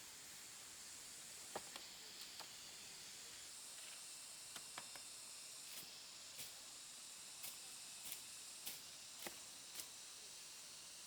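Faint, steady high-pitched drone of forest insects, with scattered light clicks and taps, about a dozen of them at uneven intervals.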